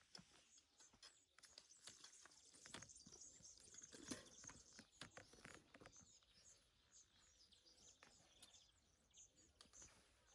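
Faint outdoor ambience of small birds chirping, with scattered light clicks.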